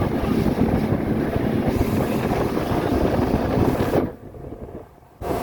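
Wind rushing over the microphone over the running engine of a small motorboat under way. The sound drops away sharply for about a second near the end, then returns.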